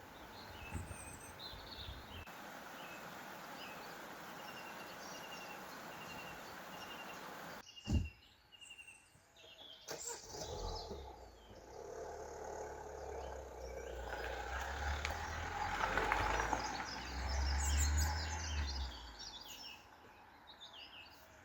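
Woodland ambience with a bird repeating a short high chirp, about two a second, for the first half. After a sudden cut there is a single thud, then a low rumble that builds, peaks late on and dies away.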